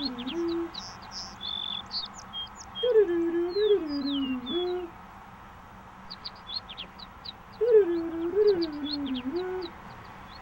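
Birds calling: a low cooing phrase, about two seconds long and dipping and rising in pitch, comes three times over scattered short high chirps from small birds.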